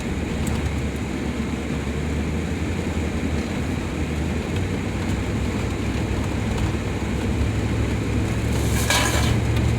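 Dodge van's engine working up a snow-covered incline, a steady low rumble with road noise inside the cab that grows a little louder toward the end. A brief hiss sounds about nine seconds in.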